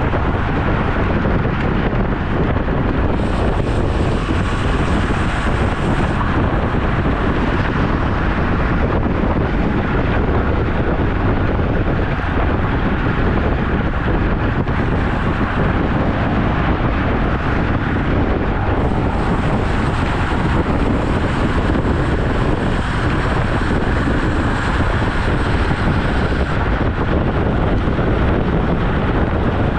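Wind rushing over the microphone of a camera on a moving road bike, a loud, steady buffeting with no breaks.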